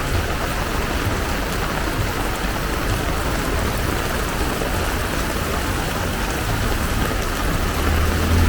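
Heavy downpour pouring steadily, a dense even hiss of rain. Near the end a motor vehicle's engine grows louder as it approaches.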